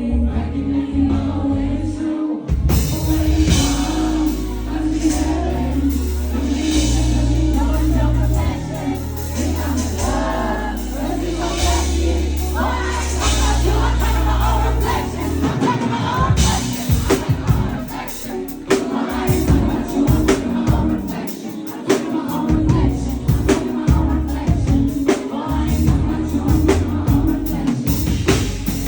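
Live pop/R&B performance: a female lead vocal over a backing track with heavy, sustained bass notes. About halfway through, a steady drum beat comes in.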